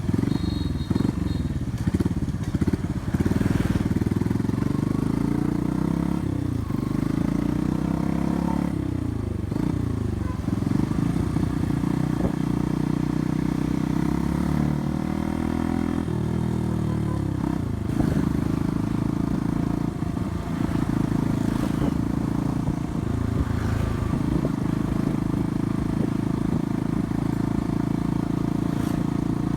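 Yamaha Byson's single-cylinder engine running through a free-flow aftermarket exhaust, its pitch rising and falling again and again as the throttle is opened and closed.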